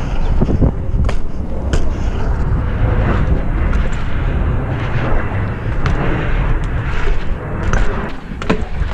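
BMX bike riding on skate-park concrete, with wind buffeting the helmet or action-camera microphone in a heavy steady rumble. Several sharp knocks and clacks from the bike and its tyres hitting the surface.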